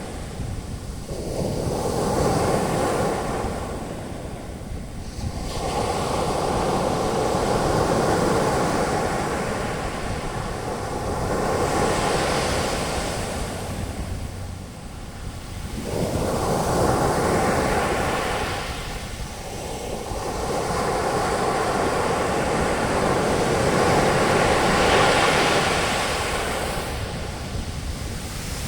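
Ocean waves breaking and washing up the beach as foaming surf, swelling and ebbing in four or five slow surges.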